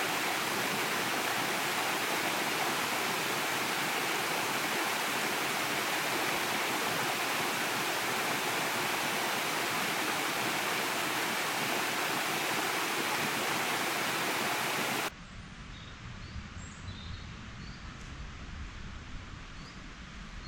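Steady, loud rush of flowing water, as from a waterfall or fast stream. About three-quarters of the way in it cuts off abruptly to a much quieter background with a low rumble and a few faint, short high chirps.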